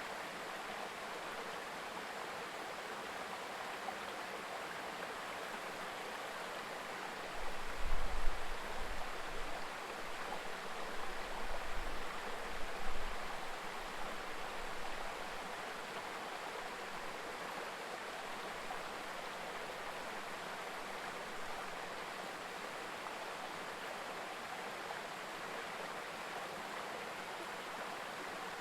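A mountain stream babbling steadily over rocks. From about seven to fifteen seconds in, an irregular low rumble comes and goes over it.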